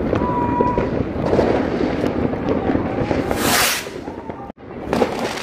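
New Year's fireworks and firecrackers going off around a street: a dense run of crackles and bangs, with a loud hiss a little past three seconds in and a brief drop-out shortly after.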